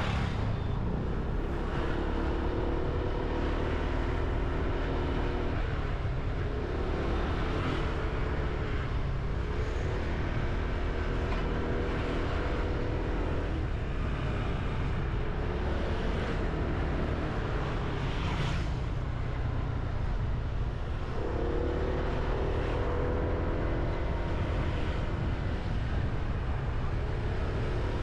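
Motorbike engine running under way with heavy wind rush on the mic; the engine note rises several times as the bike accelerates, and fades back to wind and road rumble for a stretch around the middle while it coasts.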